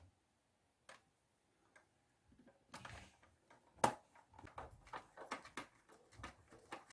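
Small hard clicks and knocks, as of a plastic toy washing machine being handled during its repair. A few scattered ones come first, then one sharp click about four seconds in, then a quick irregular run of smaller clicks.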